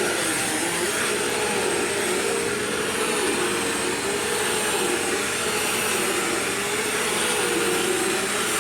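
Bissell CleanView Swivel upright vacuum cleaner running steadily over carpet: an even motor hiss with a steady hum, its pitch wavering slightly.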